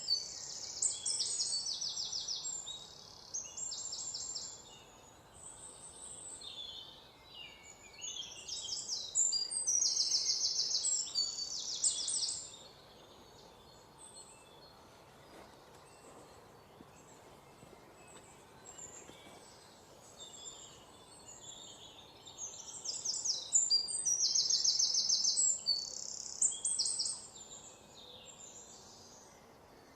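Songbirds singing in bouts of rapid, high-pitched trilled phrases, with softer chirps between them and a quieter stretch in the middle.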